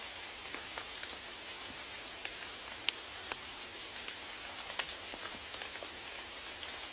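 Steady rain falling, a continuous hiss with many individual raindrops ticking sharply on a surface at irregular moments.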